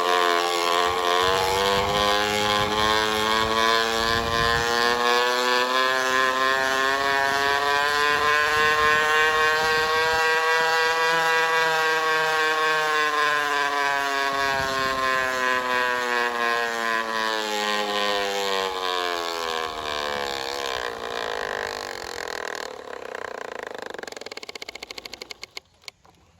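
Water bottle held against the spinning wheel of a big-tired mountain bike, buzzing like a two-stroke engine. The buzz is very loud. It rises in pitch as the bike speeds up, then falls and dies away near the end as the wheel slows.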